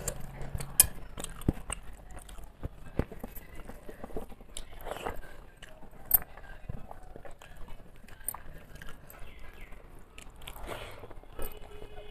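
Close-up eating by hand: chewing with many short wet clicks, and fingers mixing rice and curry against a steel plate.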